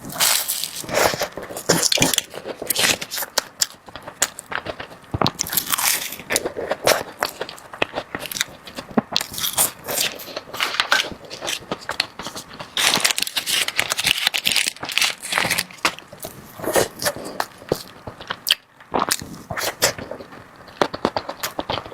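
Close-miked eating of crunchy desserts: repeated bites and chewing, a dense irregular run of crunches and crackles.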